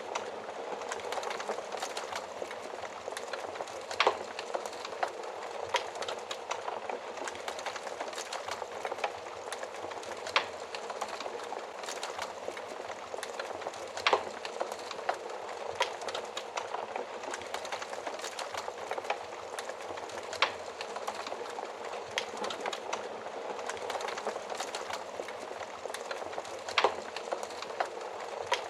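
Wood fire burning in an oven, a steady dense crackle with sharp louder pops every few seconds, about five in all.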